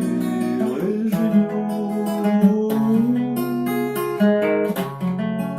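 Acoustic guitar strummed as song accompaniment, with a voice singing one word about a second in.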